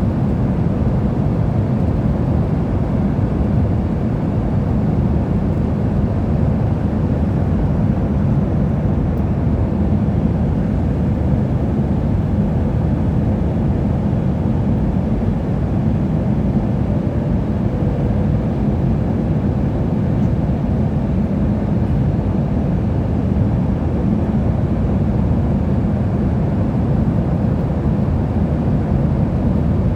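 Steady, unchanging rumble of an airplane in flight, heard from inside the cabin: engine and airflow noise, deepest in the low end.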